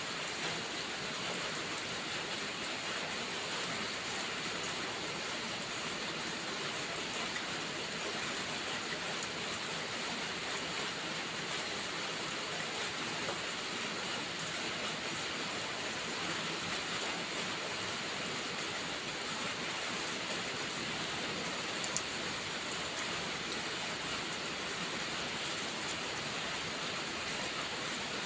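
Steady rain falling, an even hiss of many drops with no change in strength. One sharp tick stands out about three-quarters of the way through.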